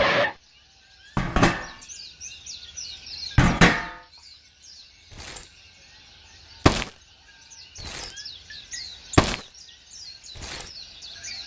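Small birds chirping and twittering throughout, with a series of sharp knocks at irregular intervals, the loudest near the start and again about two-thirds of the way through.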